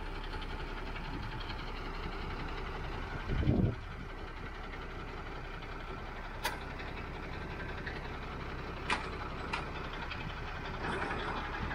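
Recovery truck's diesel engine idling steadily, with one heavy low thump about three and a half seconds in and three sharp clicks later on.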